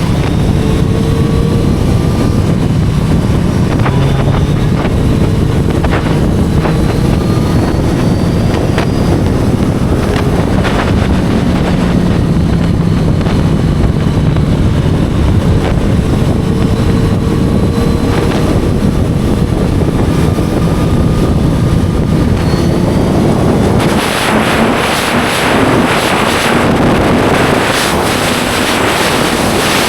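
Inline-four sport motorcycle engine running under way, its pitch climbing slowly and dropping back several times as it pulls through the gears. About four-fifths of the way through, loud wind buffeting on the microphone takes over.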